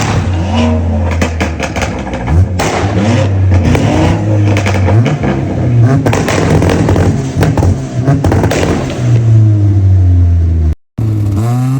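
Turbocharged Honda S2000's four-cylinder engine revving up and down under load, with many short sharp cracks over it. The sound cuts out briefly near the end.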